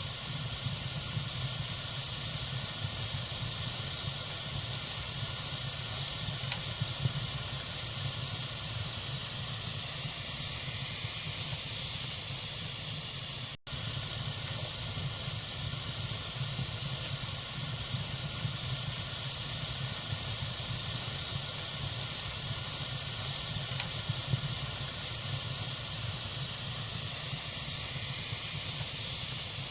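Wood fire burning in a fireplace: a steady hiss with a few faint crackles. The sound cuts out for an instant about halfway through.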